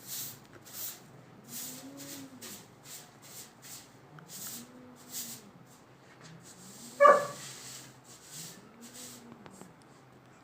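A dog whimpering softly, with soft rising-and-falling whines about every second and a half among short breathy huffs, and one loud short yelp about seven seconds in.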